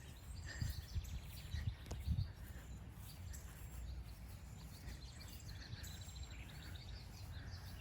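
Outdoor garden ambience: faint scattered bird chirps over a steady low rumble, with a few soft low thumps in the first couple of seconds.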